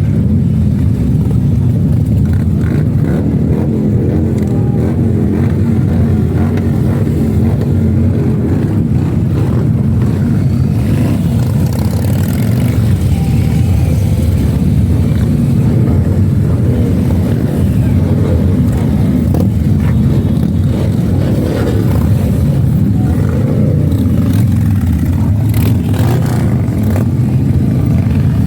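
Motorcycle engines running with a steady, loud low rumble.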